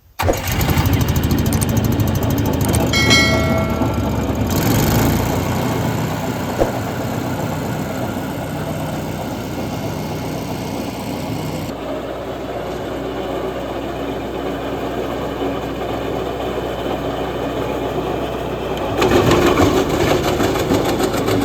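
Gasoline-powered wood chipper running steadily, with a brief high whine about three seconds in and a louder, rougher stretch near the end.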